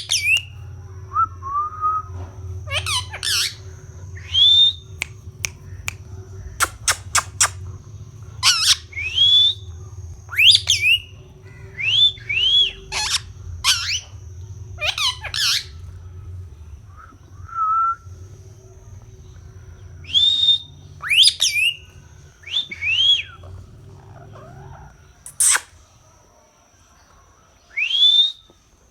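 A parrot giving repeated short, shrill squawks and whistled calls, many rising sharply and hooking over at the top, scattered irregularly throughout. A steady faint high whine and low hum run behind them and stop near the end.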